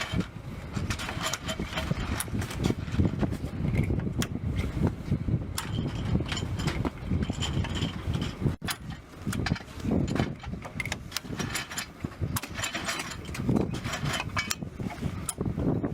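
Irregular metallic clicks and clanks of ammunition being handled and loaded into an aircraft's gun, over a steady low rumble.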